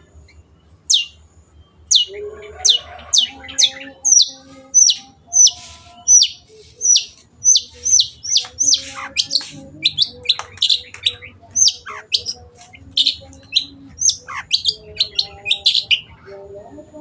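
Long-tailed shrike (cendet) singing a rapid, loud string of sharp, high notes, each sweeping downward in pitch, about two to three a second. The notes start about a second in and stop shortly before the end.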